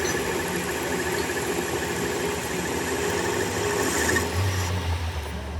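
Workshop machinery running steadily, a dense mechanical noise with a high whine. The high part stops about four and a half seconds in, leaving a low hum.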